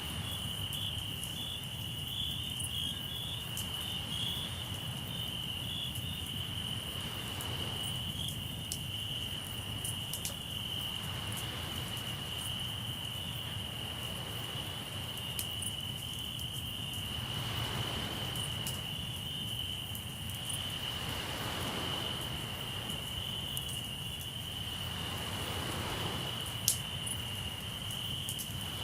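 Crickets trilling steadily at one high pitch, over sea waves washing in and out every few seconds. A campfire crackles with scattered small pops and one sharp pop near the end.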